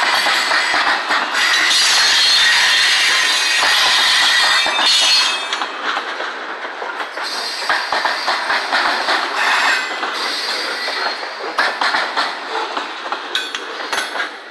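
Freight train's covered hopper cars rolling past: steel wheels running on the rail and clacking over the joints. Loud for the first five seconds or so, then quieter with sharp, irregular wheel clicks as the last cars go by.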